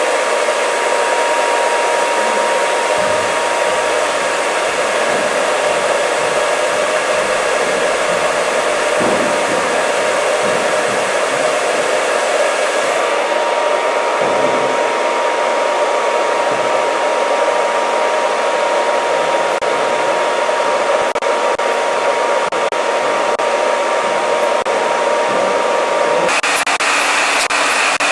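ShieldLife EMF Freedom hair dryer running: a steady rush of air with a thin whine. Near the end the whine stops and the sound shifts to a higher hiss.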